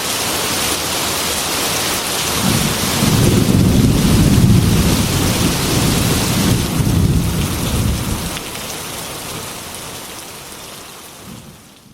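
Heavy rain falling steadily, with a long low rumble of thunder rolling from about two seconds in until about eight seconds; then the rain fades out near the end.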